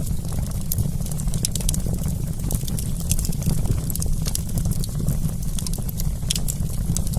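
Wood campfire burning: many sharp pops and crackles over a steady low rumble of the flames.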